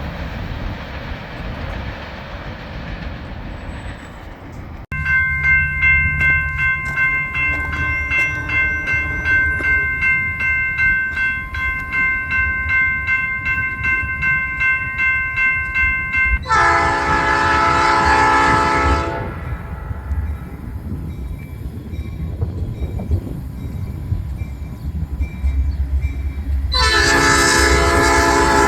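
Diesel freight locomotive sounding its air horn: one blast of about two and a half seconds midway, and a second starting near the end, over a low engine rumble. Before the first blast a bell rings with a steady, even rhythm; earlier, before a cut, there is a noisy rumble of the train moving.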